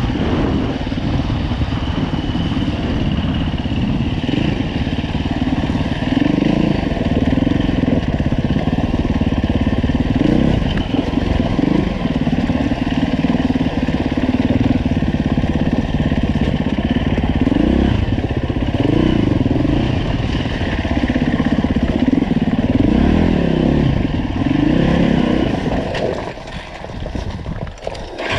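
Dirt bike's single-cylinder four-stroke engine (2015 Husqvarna FE 350) being ridden, its revs rising and falling with the throttle over and over. The engine goes briefly quieter near the end.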